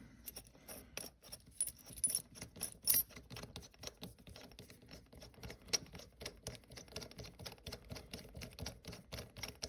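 Small metal parts clicking and rattling as a nut and washers are fitted and run down onto the shift lever's threaded post, a quick irregular run of light ticks.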